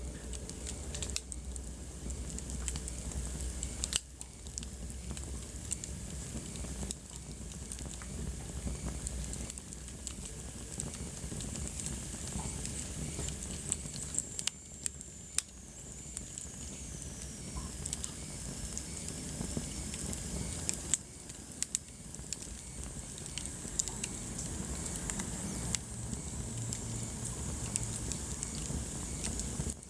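Wood fire burning in a fireplace: irregular sharp crackles and pops over a steady low hiss, with a faint high whistle falling in pitch about halfway through.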